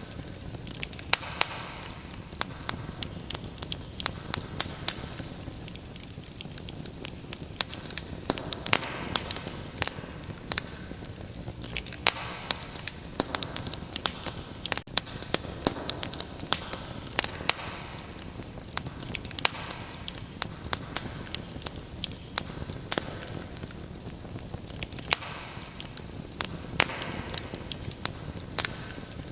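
Wood fire crackling in a fireplace: frequent sharp pops and snaps over a steady soft hiss of burning.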